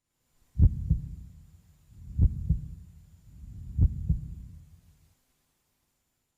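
Heartbeat sound effect: three low lub-dub double thumps about a second and a half apart, dying away about five seconds in.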